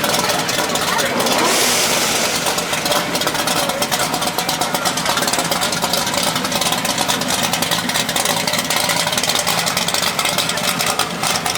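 Car engines running and revving amid the chatter of a crowd, with a brief hiss about a second and a half in.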